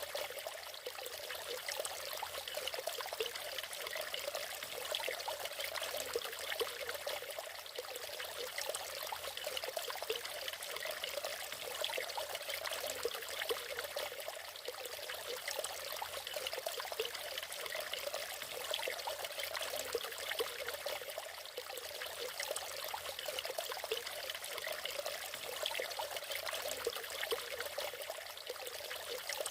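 Natural waterfall, water splashing and running steadily, an even rushing hiss with little low rumble.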